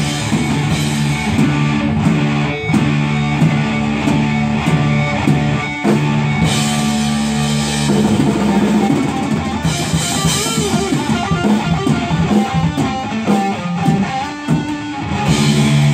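Live rock band playing an instrumental passage: distorted electric guitar holding low notes over a drum kit.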